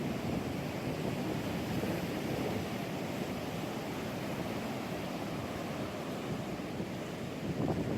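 Ocean surf washing steadily on the shore, mixed with wind buffeting the microphone; it swells a little near the end.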